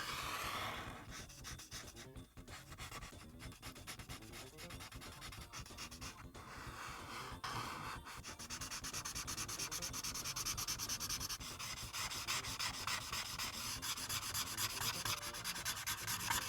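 Marker tip rubbing across paper in quick back-and-forth coloring strokes. From about halfway through, the strokes come faster and louder.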